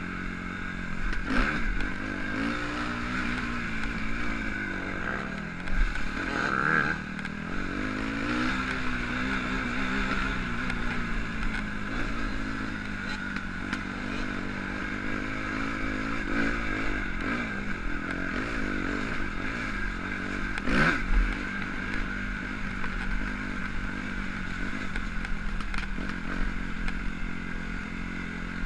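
Motocross bike engine revving up and falling back again and again as the bike is ridden round a dirt track, with a few sharp knocks along the way.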